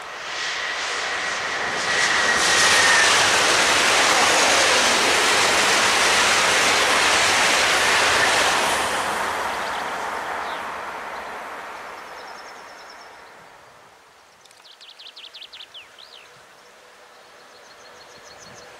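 Passenger train passing at speed on an electrified main line: a rush of wheel and air noise that builds over the first couple of seconds, holds steady for several seconds, then fades away.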